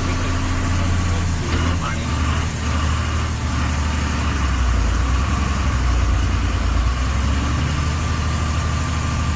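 Vehicle engine idling with a steady low hum. Faint voices come in briefly in the first few seconds.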